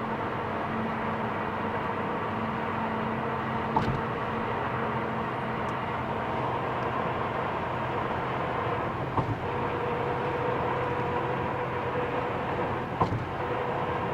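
Steady engine drone with several held tones under a loud rush of wind on the microphone, broken by three short knocks about 4, 9 and 13 seconds in.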